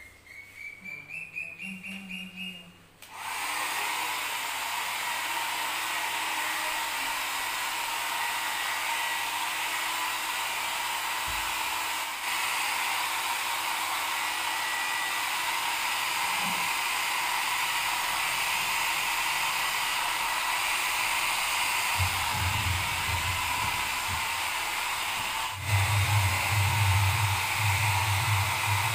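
Electric hair dryer switched on about three seconds in and then blowing steadily with a continuous hiss. Before it starts there is a short run of rising tones, and in the last few seconds a bass beat of music comes in underneath.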